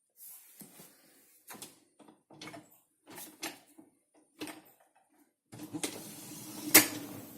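Hotpoint dishwasher racks and contents being handled: a series of light knocks and clatters, then a rack rolling along its rails for about two seconds, with one loud clunk near the end.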